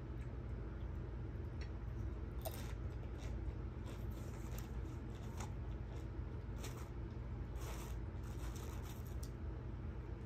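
Close-up crunching of tortilla chips being chewed: scattered short, crisp crunches, several in a cluster about three-quarters of the way through, over a steady low hum.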